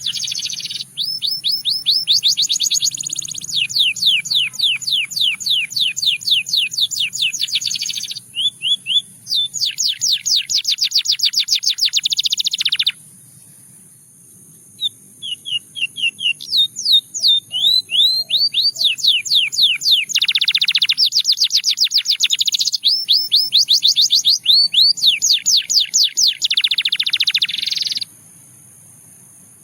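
Russian singing canary in song: fast trills of repeated sweeping notes, running from one rolled phrase into the next, with a pause of about two seconds past the middle and another near the end.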